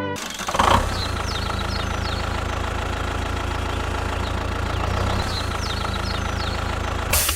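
An engine idling steadily with an even low pulse, with faint short high chirps above it.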